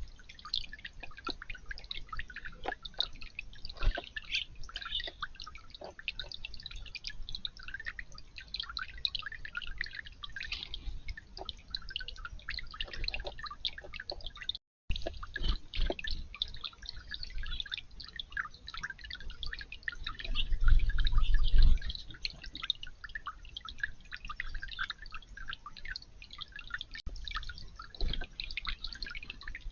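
Water trickling and dripping in a garden fountain or bird bath: a steady, irregular patter of small splashes. About two-thirds of the way through, a louder low rumble rises for a couple of seconds.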